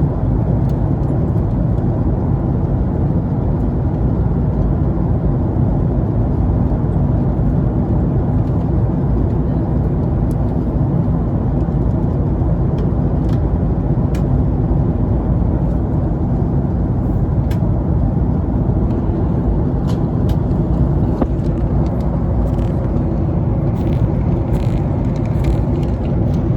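Airliner cabin noise during descent: the steady low rumble of the engines and air rushing past the fuselage, with a few faint clicks.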